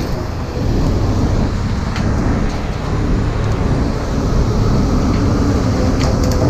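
Vehicle engine running steadily, a constant low hum, with a couple of faint clicks.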